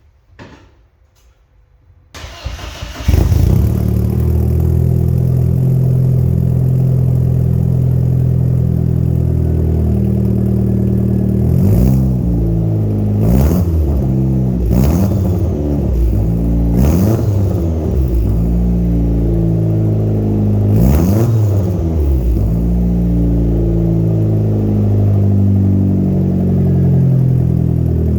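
Turbocharged Audi B5 A4 engine starting about two seconds in after a few faint clicks, then idling through a new 3-inch turbo-back exhaust with a turbo muffler. A handful of quick throttle blips rise and fall in the middle.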